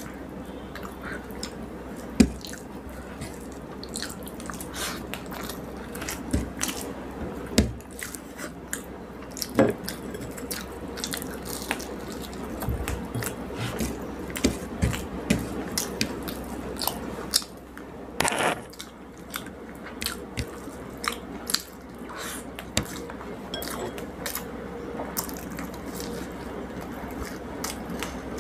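Close chewing and mouth sounds of a person eating rice with fish curry and fried sides: wet smacks and many short sharp clicks, with one brief louder noisy burst about eighteen seconds in.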